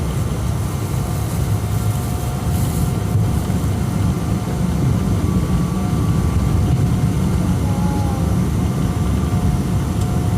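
Cabin noise inside a Boeing 777-200 before takeoff: a steady low rumble of the jet engines and airframe, growing a little louder about three seconds in.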